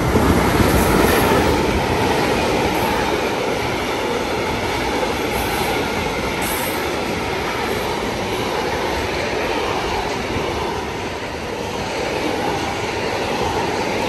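Freight train hauled by an E191 electric locomotive running through the station without stopping, its wagons rolling past with a steady wheel-on-rail rumble. The sound is loudest about a second in, as the head of the train goes by.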